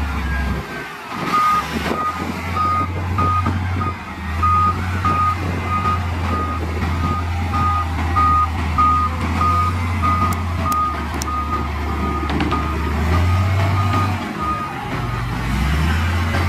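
Heavy diesel machine's reversing alarm beeping steadily, a little under two beeps a second, over the low drone of its engine. The beeping stops a few seconds before the end while the engine runs on.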